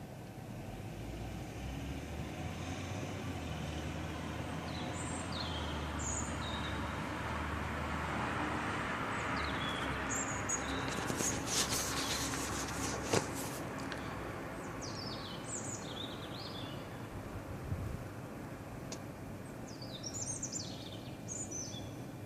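Songbird singing at night in winter: short phrases of high, falling notes every few seconds, over a steady background rumble that swells in the middle of the stretch, with a sharp click about two-thirds of the way through.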